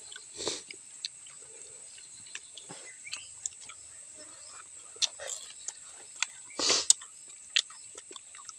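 Close-up crunching and chewing of crispy deep-fried eel: short sharp crackly bites scattered throughout, with two louder noisy bursts, one about half a second in and one near the end.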